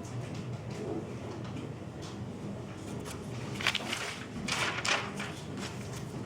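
Newspaper rustling and crinkling as a glass jar is wrapped for packing, with two louder spells of rustle in the second half.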